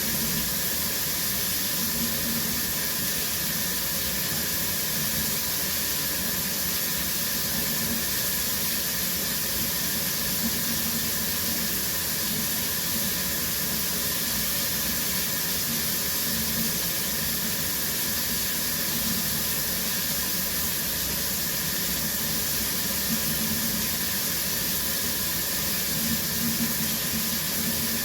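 Shower running steadily, the water spraying and splashing in a steady hiss.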